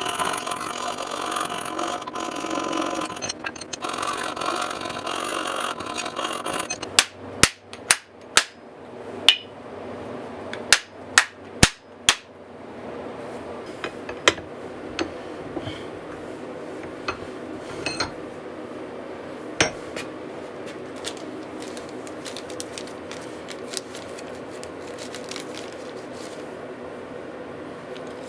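Hammer work on a hatchet: a stretch of steady scraping noise, then a run of about nine sharp hammer blows over some five seconds, then quieter steady noise with a few light knocks.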